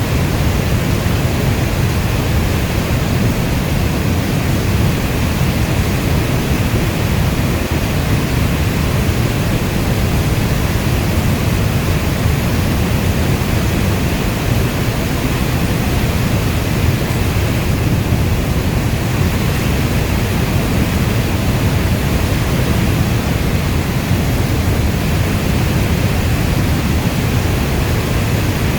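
Steady heavy rain: an even hiss over a deep low rumble.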